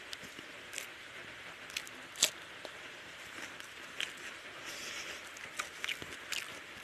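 Close-miked eating sounds: wet chewing and lip smacks on a mouthful of rice and egg curry, and fingers squishing and mixing rice with curry on the plate. Scattered short wet clicks, with one sharp click about two seconds in.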